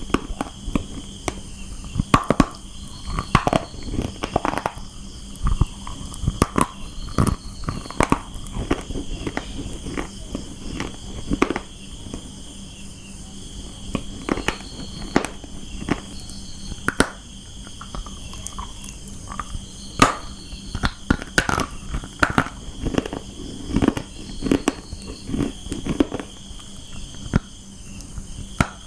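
Crunching and chewing of brown mathi, a baked edible clay, in the mouth: irregular sharp crunches, several a second, with short pauses between bites.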